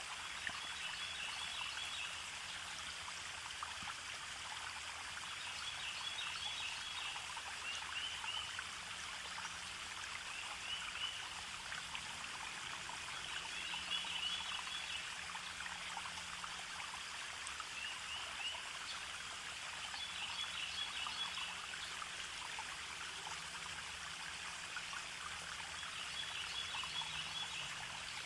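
Forest stream flowing steadily, with short high chirps recurring every few seconds.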